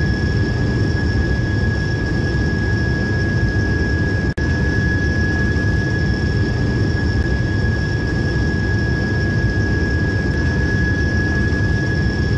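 Steady train running noise: a low rumble with a constant high whine above it and no rhythmic wheel clatter. It cuts out for an instant about four seconds in.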